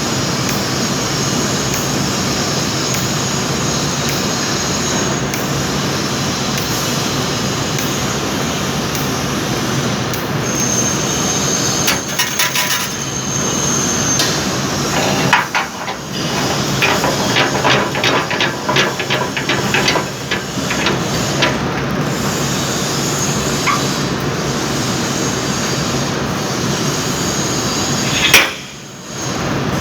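Metalworking shop noise: a steady machine running throughout, with a high whine for a few seconds and then a quick run of hammer strikes on metal about halfway through. A single loud knock comes near the end.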